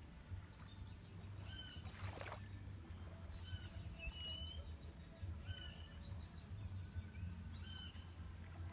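Birds calling: short bright calls repeated every second or two over a faint steady low rumble.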